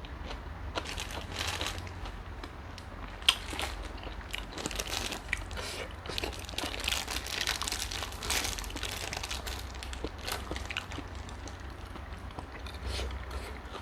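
A person eating close to the microphone: irregular crunching and crackling bites and chewing.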